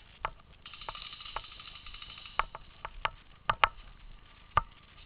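Paintball markers firing: irregular sharp pops, a few of them in quick pairs.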